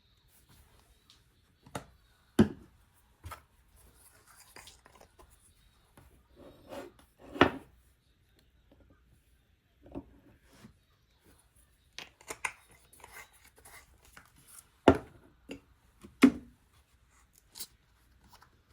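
Kitchen preparation sounds: sharp knocks and clatter of utensils and dishes at irregular intervals, with faint rustling between them.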